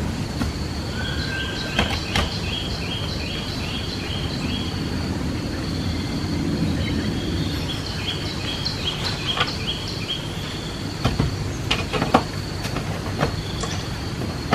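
Steady outdoor background noise with a thin high tone, over which a bird twice sings a quick run of about eight short chirps. There are scattered sharp knocks, most of them in the second half.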